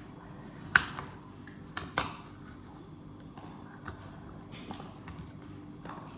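Light knocks and taps of kitchen items being handled, with two sharper knocks about a second apart near the start and fainter taps after, over a steady low hum.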